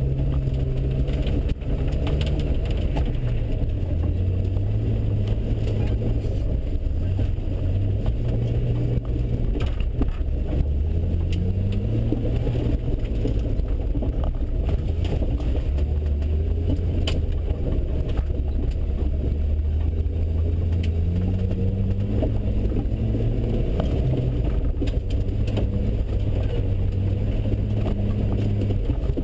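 1997 Jeep Wrangler TJ's engine running at low revs as it drives an off-road trail, heard from inside the cabin, its pitch rising and falling with the throttle. A few sharp knocks come through now and then.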